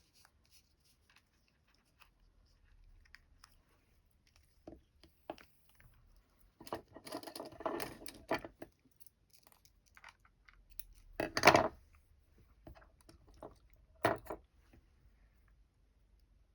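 Hands handling embroidery threads and stitching materials: scattered small clicks and crackly rustles, with a longer rustle about seven seconds in and the loudest one about eleven seconds in.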